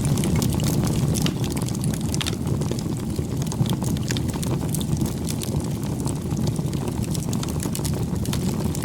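Campfire burning: a steady low noise from the fire with frequent small, sharp crackles and pops from the wood.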